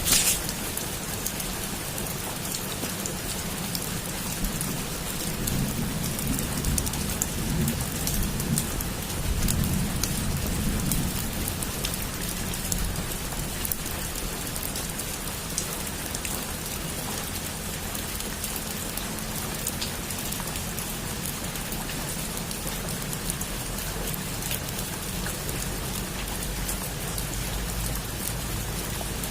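Heavy rain falling steadily on a roof, an even hiss scattered with individual drop taps. A sharp crack of thunder comes right at the start, and a low thunder rumble rolls in about 5 seconds in and fades by about 11 seconds.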